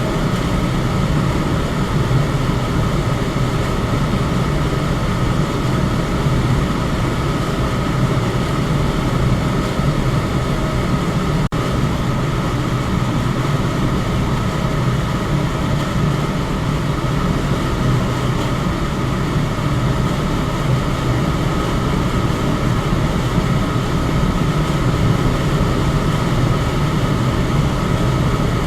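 Electric fan running steadily: a constant whoosh of moving air over a low motor hum, with a faint steady whine above it. There is a momentary dropout about eleven seconds in.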